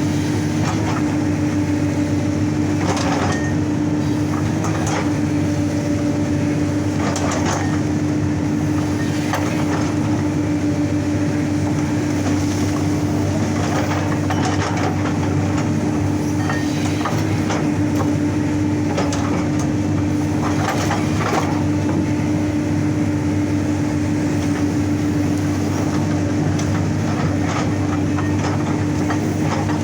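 Excavator with a hydraulic rock breaker at work: the engine and hydraulics run steadily under a constant whine, with the breaker hammering rock. Scattered sharper knocks come every few seconds.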